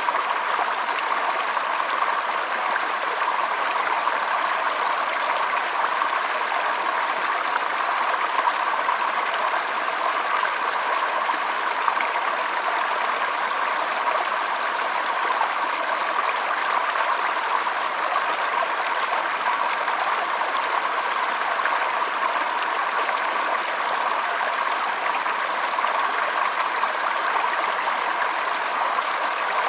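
Shallow stream flowing and trickling, a steady even rush of water with no breaks.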